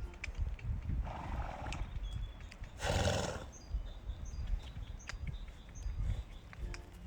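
A horse making two noisy calls, a shorter one about a second in and a louder one about three seconds in, over low rumbling noise.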